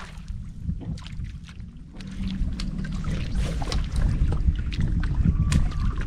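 Low rumble of wind on the microphone aboard a fishing boat, with scattered clicks and knocks of gear being handled; it gets louder about two seconds in.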